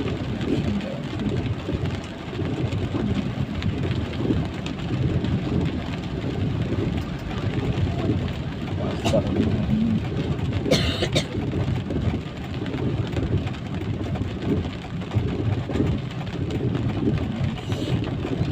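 Steady road noise from a moving vehicle in rain, with a heavy, fluctuating low rumble. A brief hiss cuts through about eleven seconds in.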